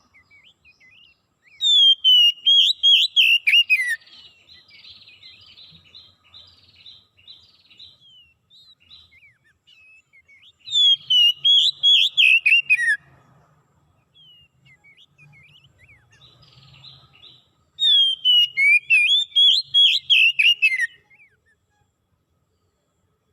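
A songbird singing three loud phrases of rapid whistled notes, each lasting two to three seconds, with softer twittering in between.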